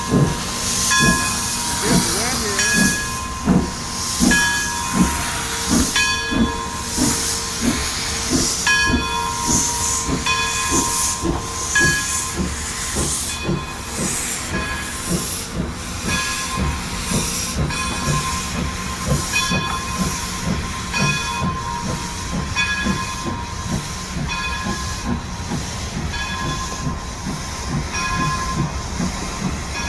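Steam locomotive pulling away with its train: exhaust chuffs come steadily quicker over a bed of steam hiss, while a bell rings about once a second.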